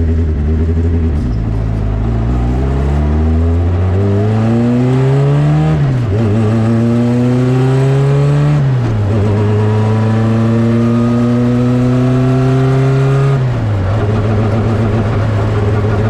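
Turbocharged Honda CRX four-cylinder engine pulling hard under load, its pitch climbing in each gear with quick upshifts about six and nine seconds in. After a longer, slower climb in the next gear the engine drops back to a steady lower pitch a little after thirteen seconds as the throttle is eased.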